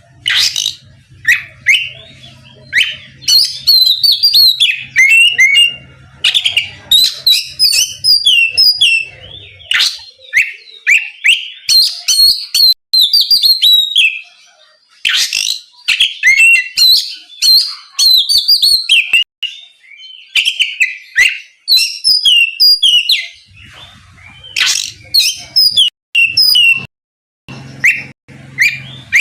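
Oriental magpie-robin (kacer) in full, continuous song: a fast run of varied, loud whistled phrases and trills, the kind of song used to provoke rival males into answering. The song breaks off briefly about halfway through and again near the end, and a faint low hum lies beneath it at the start and near the end.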